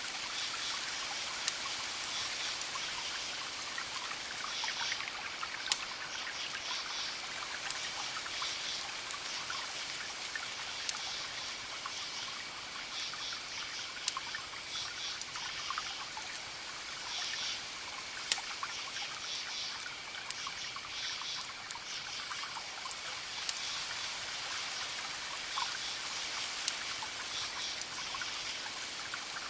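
Campfire crackling with occasional sharp pops, over a steady hissing wash like distant surf. Crickets chirp in short repeated trills, with a thin steady high insect tone beneath.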